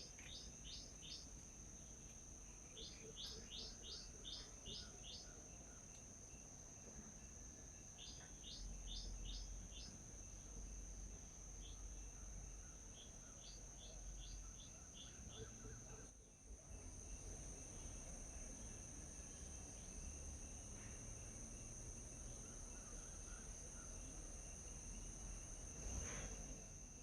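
Birds calling in quick series of short, high notes, about four notes a second, repeated every few seconds, over a steady high insect drone. Near the end there is a single soft knock.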